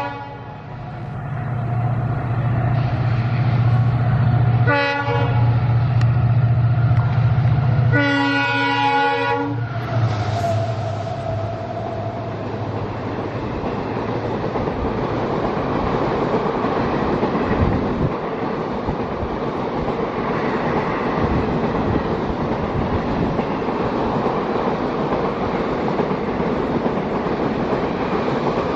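EMD WDG-4 diesel locomotive passing with its engine droning. Its multi-tone horn gives a short blast about five seconds in and a longer one about three seconds later. Then the coaches roll by with a steady wheel rumble and clickety-clack on the rails.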